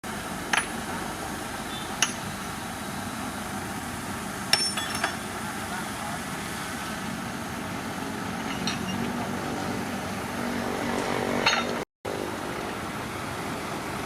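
Heavy earthmoving machinery's diesel engine running steadily, with a handful of sharp metallic clanks scattered through, the loudest a cluster about four and a half seconds in.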